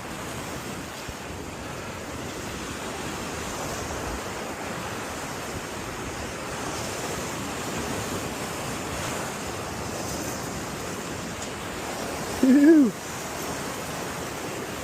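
Ocean surf washing steadily against the jetty, with wind on the microphone. One short call, falling in pitch, near the end.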